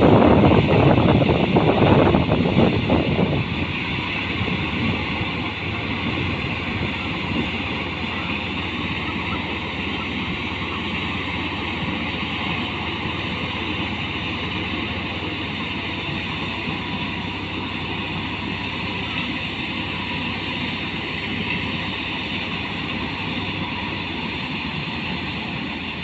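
Ford tractor engine running, louder for the first three seconds or so, then settling to a steady drone.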